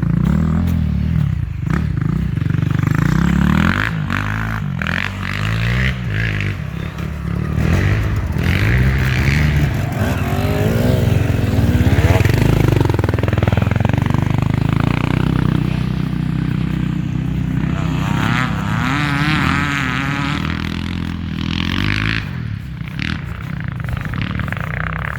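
Enduro motorcycle engine running and revving up and down, its pitch rising and falling unevenly.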